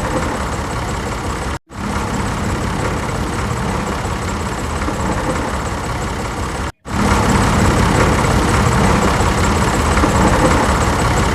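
Swaraj tractor's diesel engine running steadily, broken twice by brief silences where the recording cuts, and louder after the second cut.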